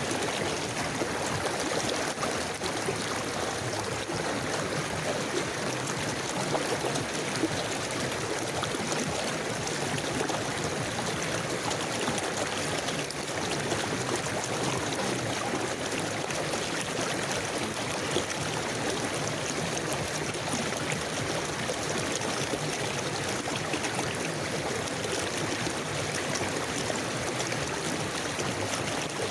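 River water flowing steadily over stones, a continuous even rush with trickling and gurgling.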